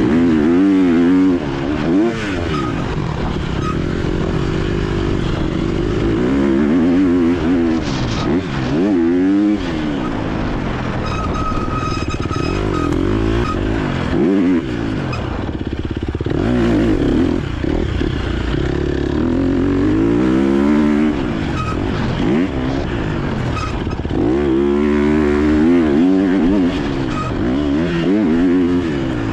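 Four-stroke motocross bike engine being ridden hard, its pitch climbing and dropping over and over as the rider opens the throttle, shifts and backs off.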